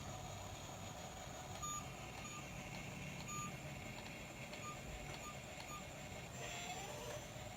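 Truck reversing alarm giving several short high beeps at uneven spacing over the steady low hum of the running truck.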